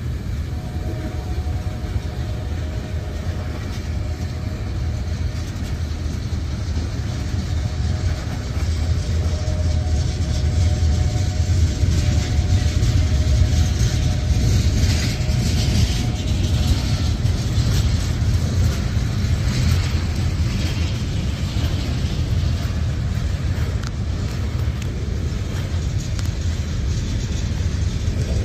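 Freight train of tank cars rolling past: a steady low rumble of steel wheels on rail, growing a little louder in the middle, with a faint steady whine in the first half and some rattling clicks in the middle.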